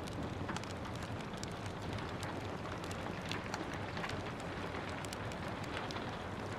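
Steady rain hissing, with a wood fire crackling over it in frequent sharp, irregular pops.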